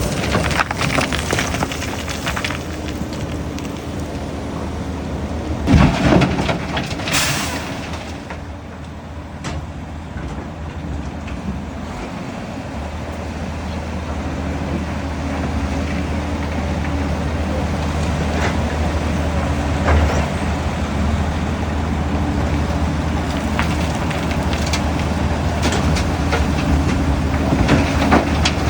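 Excavator engine running steadily, its low hum getting stronger about twelve seconds in. Heavy knocks about six seconds in and a short hiss just after.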